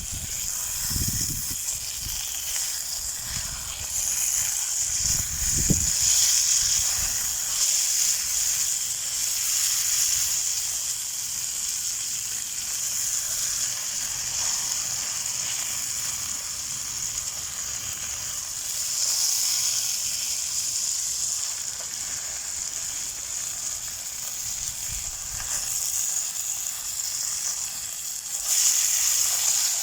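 Chicken thigh sizzling steadily in a frying pan over an alcohol stove, with a few low bumps near the start and louder sizzling just before the end.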